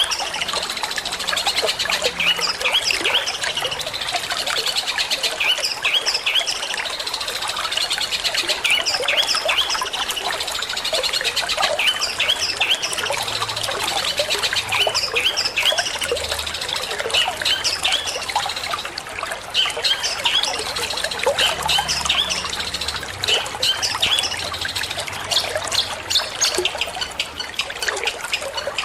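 Long-tailed shrike (cendet) singing a fast, unbroken run of short, high, sharp chirps, over steady trickling water.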